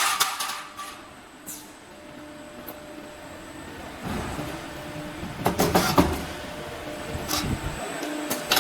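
Refrigerator cabinet mullion roll forming line running: a steady machine hum under intermittent sharp metallic clanks and knocks, with a burst of clanks at the start and another cluster a little past the middle.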